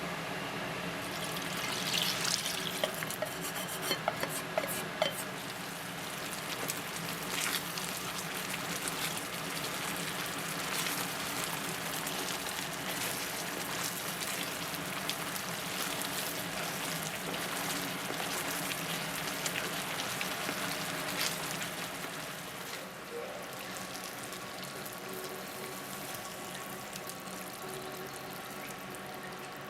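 Food sizzling steadily in a frying pan, with a few sharp clicks and knocks of cookware a few seconds in; the sizzle eases a little after about twenty seconds.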